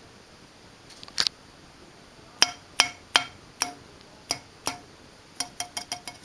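A ceiling fan's metal canopy tapped again and again, each tap a short, bright metallic clink that rings briefly; the taps come singly at first, then as a quick run of about six near the end, showing that the part is metal.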